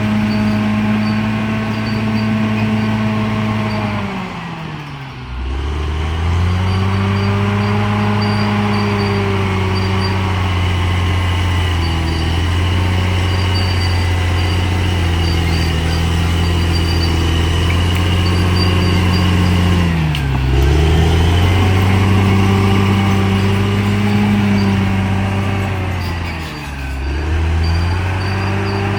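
Bulldozer's diesel engine running steadily, its note dropping sharply and climbing back three times: about five seconds in, about twenty seconds in, and near the end.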